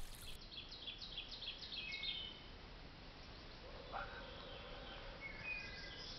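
Faint birdsong over quiet outdoor ambience: a quick run of short chirps stepping down in pitch in the first two seconds, a lower call about four seconds in, and more short chirps near the end.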